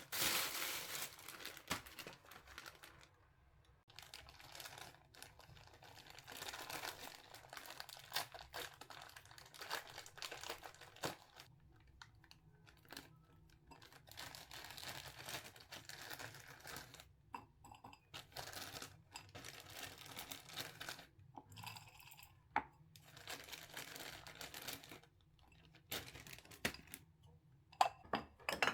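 Plastic bags and food packaging rustling and crinkling in irregular bursts, with scattered clicks and light knocks, as groceries are unpacked and handled.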